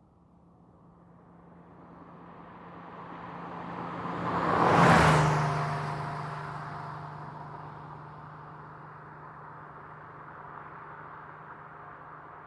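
1990 Porsche 911 with its air-cooled flat-six approaching and passing by at medium speed. It is loudest about five seconds in, when the engine note drops in pitch as the car goes past, then fades away.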